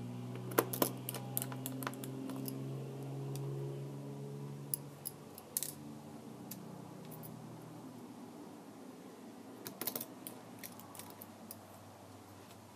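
Clusters of light clicks and taps from small tools and parts being handled during a tablet screen repair, over a low steady hum that slowly fades.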